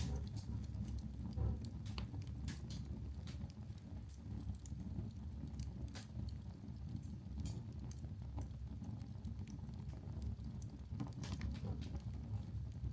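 Wood-briquette fire burning in an open fireplace: irregular sharp crackles and pops over a steady low rumble.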